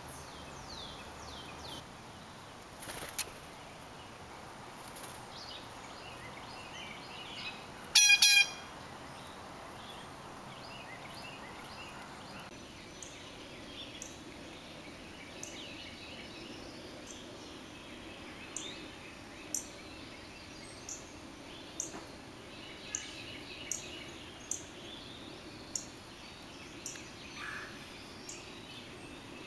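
Wild birds chirping and calling over outdoor background noise, with one loud, rasping call about eight seconds in and short sharp chip notes about once a second in the last ten seconds.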